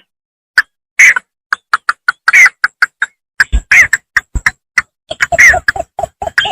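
Bittern (bambangan) calling from a rice field in rapid series of short, clipped notes, several a second. Higher, sharper notes come in the first half; a faster run of lower, knocking notes follows near the end.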